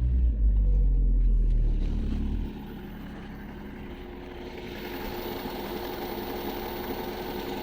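Car engine just after a cold start, running loud for about two and a half seconds and then settling to a quieter, steady idle. No hydraulic lifter tapping can be heard; the owner puts this down to about 1500 km on fresh oil after a flush.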